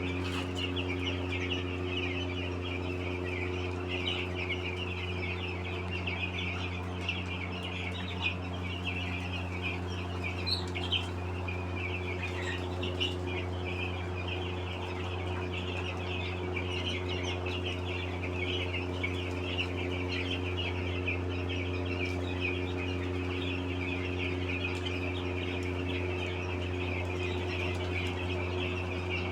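A flock of chickens calling continuously, many short overlapping high-pitched calls, over a steady low mechanical hum.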